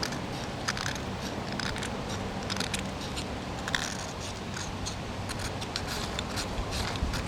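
An Opinel No. 6 carbon-steel knife blade scraping a magnesium block in a run of short, irregular strokes, shaving off magnesium for tinder.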